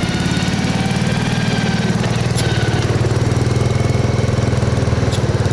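Bolens 850 lawn tractor's 8 1/4 horsepower Wisconsin single-cylinder engine running steadily at idle. It runs smoothly now that the fouled spark plug has been cooked clean.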